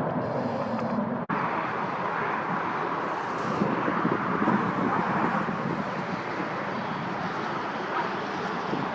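Jet airliner on its landing run, a steady rush of engine noise with wind on the microphone. The sound briefly cuts out about a second in.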